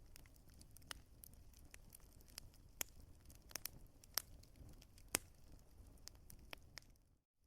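Wood fire crackling: irregular sharp pops and snaps over a low, steady rumble, with one louder pop about five seconds in. The sound cuts out completely for a moment near the end.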